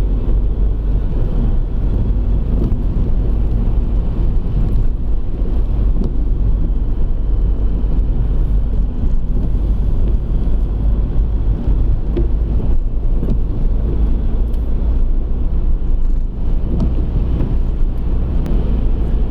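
A car driving along a road: a steady, loud low rumble of engine and tyre noise.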